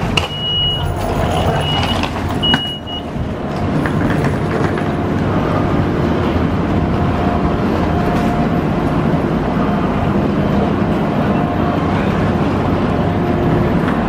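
CRH1A high-speed train's door warning beeping in short high-pitched pulses for the first few seconds, then the steady hum of the stopped train's equipment running at the platform.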